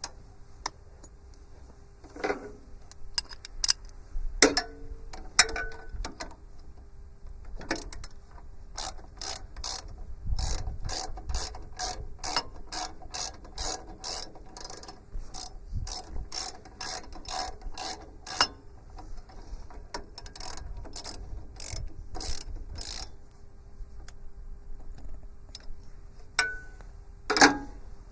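Socket ratchet clicking in long runs of even strokes, about two clicks a second, as the sub-frame bolts are backed out. A few ringing metal clanks of tools come before the ratcheting, and a loud one near the end.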